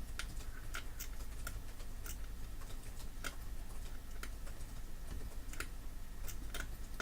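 Small tools and parts clicking and tapping on an electronics workbench, irregular light clicks about two a second, over a low steady hum.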